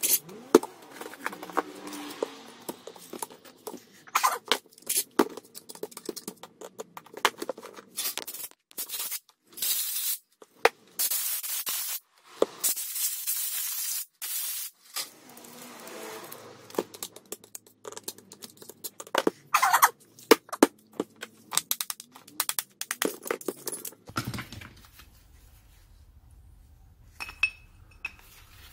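Disassembly of a Bosch GWS 20-230 angle grinder: metal parts and tools clicking, clinking and scraping, with a few longer hissing bursts around the middle. Near the end it goes quieter.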